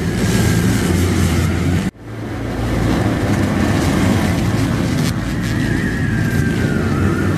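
Steady engine noise of motocross bikes, cut off abruptly for an instant about two seconds in before it resumes. A faint high tone wavers and slides downward near the end.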